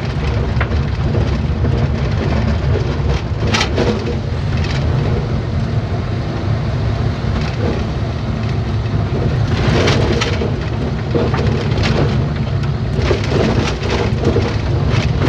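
A truck's engine and road rumble, heard loud and steady from inside the cab, with scattered knocks and rattles.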